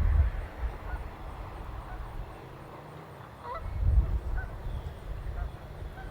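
Geese honking a few times, one call standing out about three and a half seconds in, over low rumbling noise that swells near the start and again around four seconds in.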